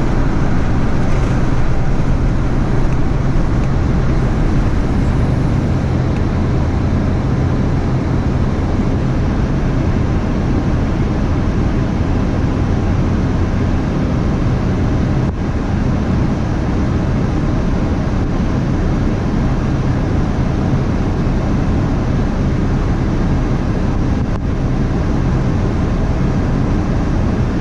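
An engine running steadily under a constant rushing noise, with an even low hum and no change in speed.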